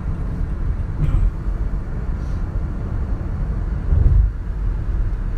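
Steady low road and engine rumble of a moving car, with a louder bump about four seconds in.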